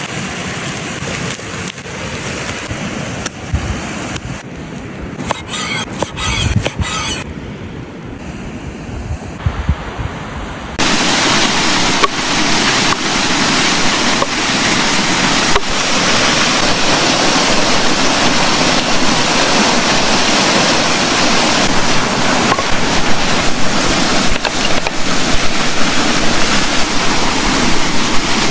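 Steady rushing of water at a lakeshore, with scattered clicks early on. About eleven seconds in it cuts suddenly to a louder, even rush of water.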